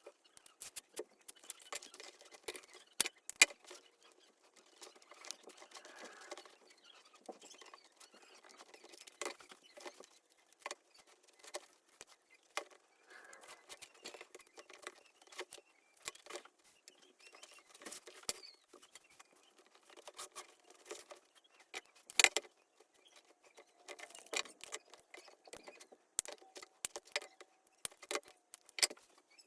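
Hands working on a small leather baseball glove: quick, irregular clicks and taps with rustling handling noise between them, a few sharper clicks standing out.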